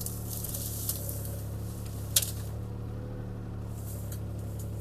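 CAT 303C CR mini excavator's diesel engine running steadily while the machine works, with a hissy rustle in the first second and a sharp click about two seconds in.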